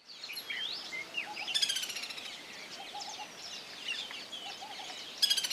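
Several birds calling together: a mix of high chirps and whistled glides. A loud, fast rattling trill comes about a second and a half in and again near the end, and faint low short notes sound now and then underneath.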